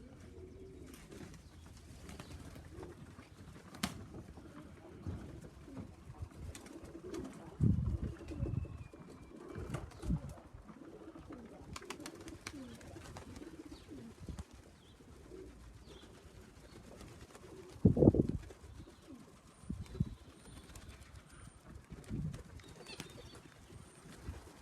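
Pigeons cooing repeatedly, low wavering calls, with a few louder low thumps about eight and eighteen seconds in.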